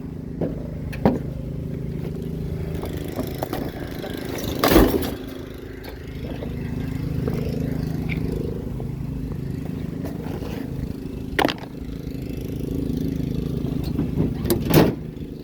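Vehicle engine idling steadily, broken by three loud knocks as heavy scrap is handled: about a third of the way in, about three quarters in, and near the end.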